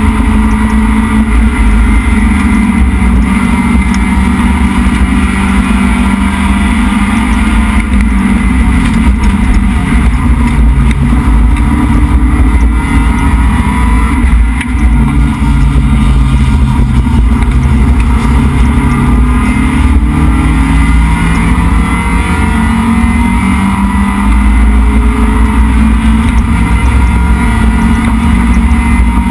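A race-prepped Neon's SOHC 2.0-litre four-cylinder engine running hard under racing load, heard loud from inside the stripped cabin. Its pitch rises and falls through the lap, with a brief dip about halfway through, over road and wind noise.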